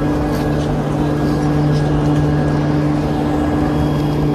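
Passenger train at a station platform: a steady low hum over a constant rumble, unchanging throughout.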